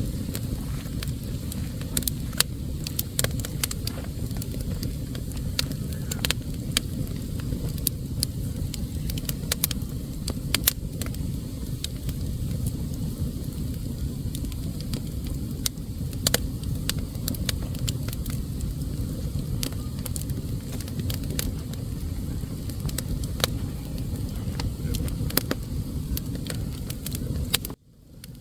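Wood fire burning in a fireplace: a steady low rumble of flames with scattered sharp crackles and pops. The sound cuts out for a moment near the end.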